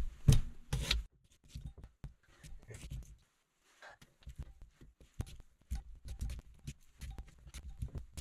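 A fork jabbing into a raw potato to pierce it before baking. There are two sharp stabs in the first second, then lighter scattered taps and rubbing as it is worked over.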